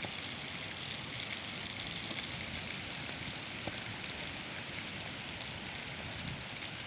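Heavy rain falling steadily, a constant hiss of fine patter.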